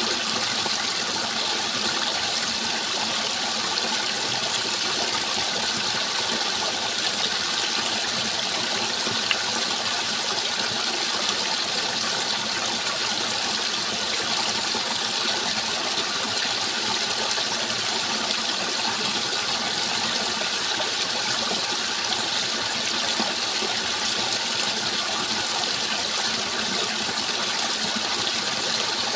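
Rushing water, a steady, even hiss that never breaks or changes.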